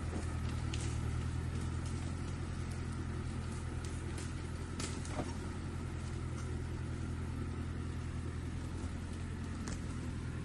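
Japanese tractor engine running at a steady speed, with a few short sharp clicks over it, the clearest about five seconds in.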